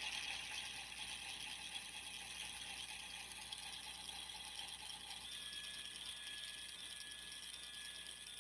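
A small electric toy motor and its plastic gears whirring steadily and quietly, with a fine fast rattle; the pitch shifts slightly about five seconds in.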